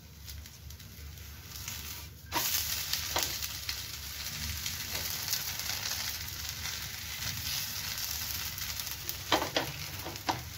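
Jowar chilla sizzling on a hot tawa. About two seconds in it is flipped onto the pan and the sizzle jumps louder and holds steady, with a few short taps of the silicone spatula near the end.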